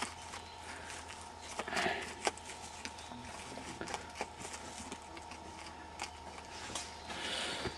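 Digging into soil and brick rubble to recover a metal detector target: scattered scrapes and light knocks, with a faint steady tone underneath.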